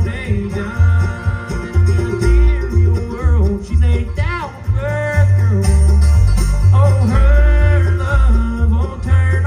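Live bluegrass band playing an instrumental passage without vocals, with banjo, guitar and sliding melody lines over a steady bass beat.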